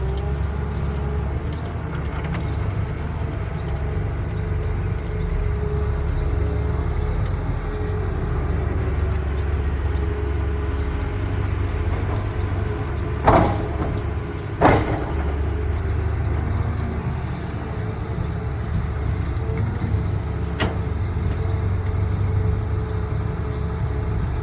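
Heavy diesel construction machinery running steadily with a low drone. Two sharp, loud bangs come about a second and a half apart past the middle, and a lighter click follows later.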